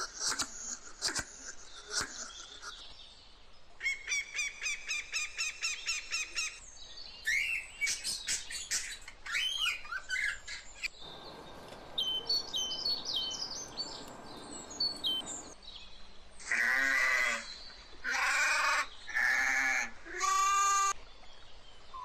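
A string of calls from several birds: a fast trill, then chirps and whistles over a stretch of hiss, then four loud calls near the end.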